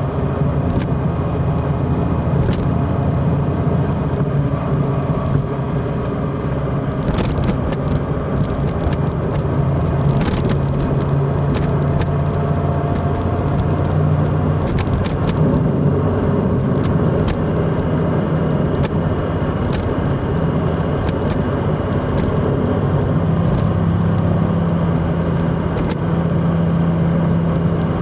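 Large motorcycle's engine running steadily under way, with wind and road noise and scattered sharp clicks.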